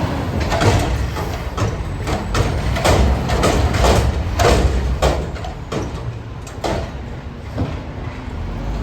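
Diesel engine of an Autocar Xpeditor garbage truck running under a series of loud metal clanks and bangs from the dumpster being handled, which thin out near the end.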